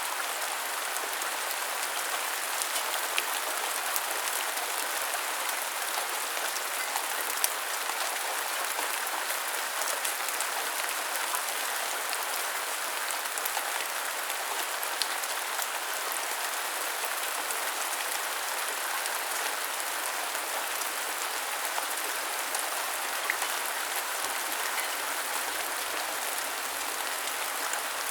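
Steady rain falling on hard surfaces, an even hiss with scattered sharper drips and droplet ticks.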